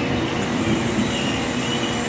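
A train running at the station platform, a steady sound with a low hum through it.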